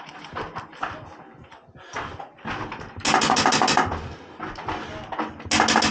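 Airsoft gun firing on full auto: a burst of rapid, evenly spaced shots about three seconds in and another near the end, with a few scattered shots before.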